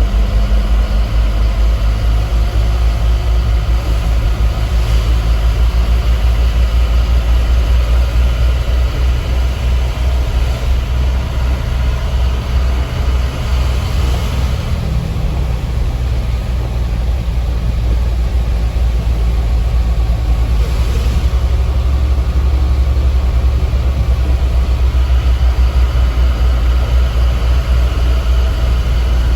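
Light truck's diesel engine running steadily while the truck drives, heard from inside the cab; the engine note shifts about halfway through.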